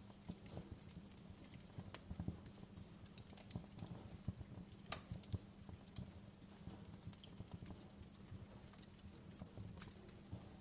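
Fire crackling: irregular small pops and snaps over a low crackle, with one sharper pop about five seconds in.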